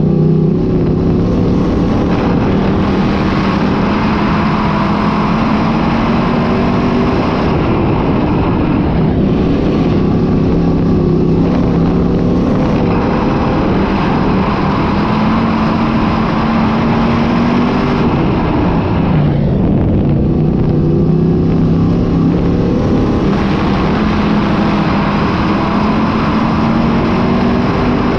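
Dirt-track modified race car engines running hard, their pitch rising under throttle and falling off in slow cycles as they circle the track.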